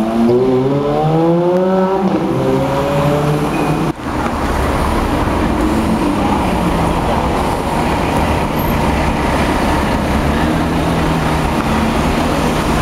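Supercar engine accelerating hard, its pitch climbing for about two seconds. After a sudden cut about four seconds in, a steady rush of engine and road noise follows.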